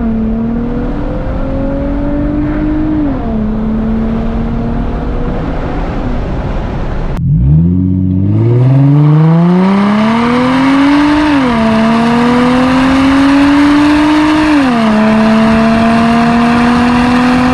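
2004 Infiniti G35 coupe's 3.5-litre V6, running through a muffler delete, accelerating through the gears: the pitch rises and drops back at each upshift, then holds steady. After a brief break about seven seconds in, it pulls again from low revs with two more upshifts.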